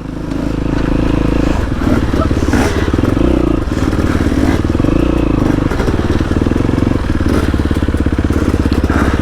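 Off-road motorcycle engine running at low revs while riding slowly over rough ground, its pitch shifting up and down a few times with the throttle, with a few faint knocks and clatters.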